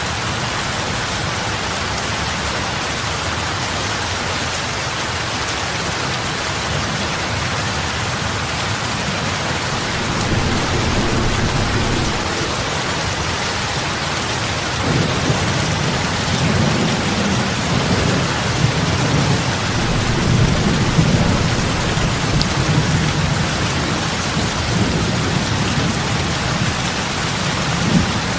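Steady rain falling on open lake water, an even hiss of drops striking the surface. A low rumble swells in about ten seconds in and again from about halfway, rolling on to near the end.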